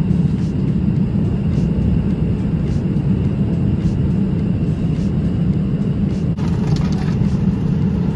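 Steady low rumble of a jet airliner cabin in flight, with a few faint clicks near the end.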